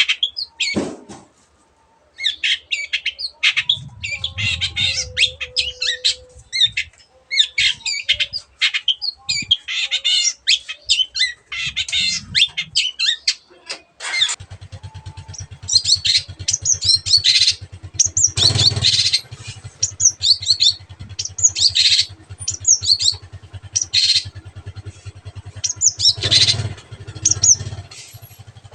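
Long-tailed shrike singing a fast, scratchy chattering song of quick varied notes with short pauses. From about halfway a low, steady engine drone runs underneath.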